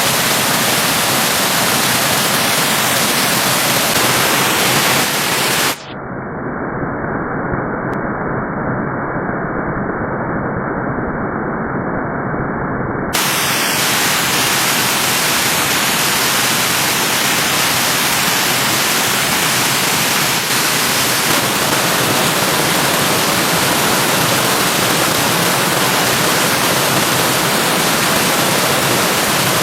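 Steady rush of flowing stream water running high after rain. For about seven seconds near the start it sounds dull and muffled, its hiss cut off.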